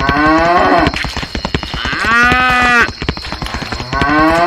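Two long moos, one at the start and one about two seconds in, each gliding in pitch, over rapid steady clicking like a small engine running.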